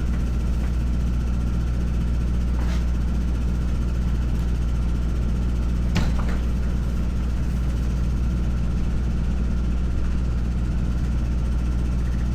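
An engine idling steadily with a low, even hum, with a short sharp click about three seconds in and another about halfway through.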